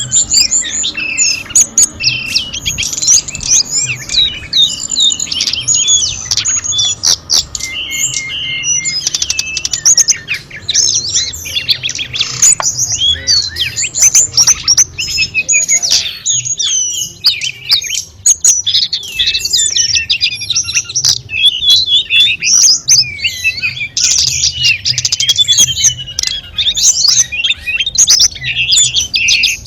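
Tledekan gunung songbird singing a dense, fast, ever-changing run of high chirps, trills and whistled phrases, over a faint background of trickling water.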